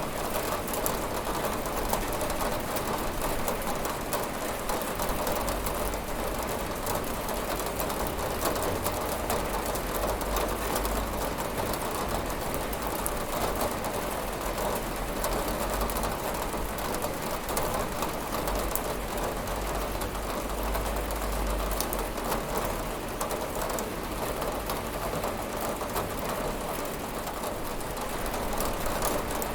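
Steady rain falling on a window glass: an even, continuous patter of many small drops.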